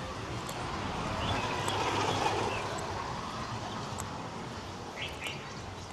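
A passing vehicle on the street: a rushing noise that swells to its loudest about two seconds in, then slowly fades.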